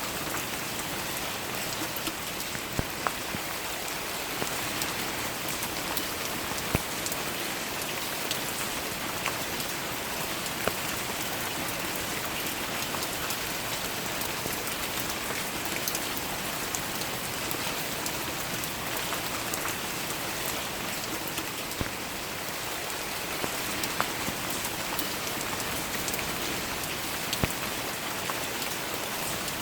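Steady rain falling on flower petals and leaves: a constant even hiss, with single drops landing sharply here and there.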